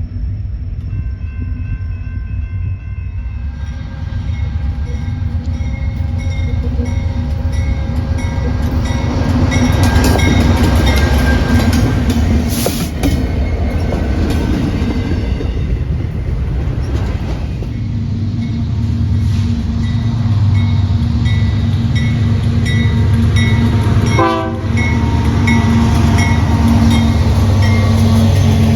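A train rumbling past, heavy and steady, with high ringing tones over the rumble that come and go. The sound grows fuller a few seconds in.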